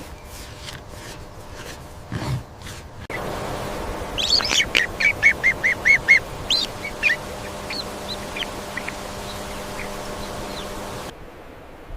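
A bird calling: a quick run of short, high calls, then a few scattered ones, over a steady low hum.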